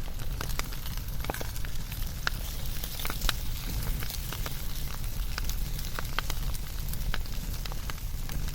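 Wood fire burning, with a steady low rumble of flame and irregular sharp crackles and pops from the burning logs.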